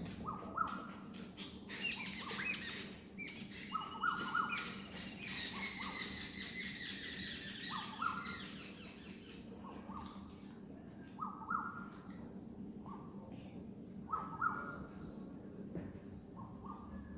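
Birds calling in the background: short calls repeated every second or two, with a spell of higher chirping early on, and faint scattered clicks.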